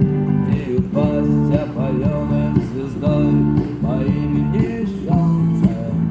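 Electric guitar playing an instrumental passage: held low chords under a melody line with bent notes.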